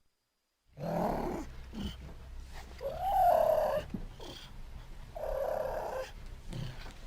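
Puma (cougar) growling and purring in separate bursts, with one louder call that rises and then falls about three seconds in.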